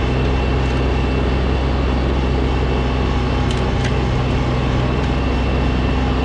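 Snowblower engine running steadily, a constant low hum with no change in speed, and a couple of faint ticks midway.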